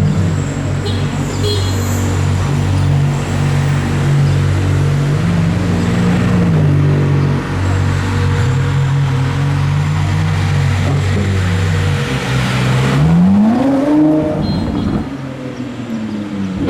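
A high-performance car engine running at a low, steady pitch with small throttle changes, then revving up sharply and falling back near the end.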